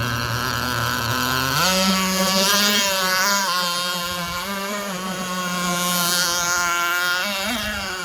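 Small nitro glow engine of an RC jet ski running: it idles, revs up sharply about a second and a half in, holds high revs for several seconds, then drops back toward idle near the end.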